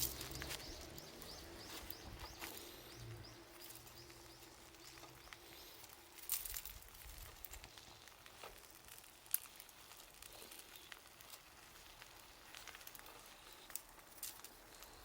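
Bonfire crackling: scattered sharp pops and snaps of burning wood over a faint hiss, with a louder pop about six seconds in and the sharpest about nine seconds in.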